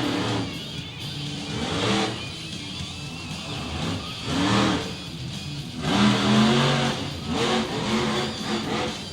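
Monster truck engine revving hard in repeated bursts, its pitch rising and falling several times, with music playing underneath.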